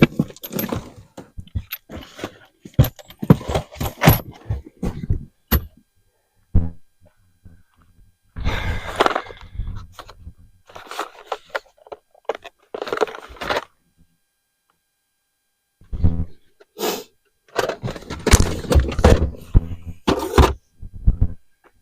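Tools and assorted items clattering and knocking as they are handled and moved between storage containers: a quick run of knocks and clunks, then bursts of rattling, cut off abruptly twice.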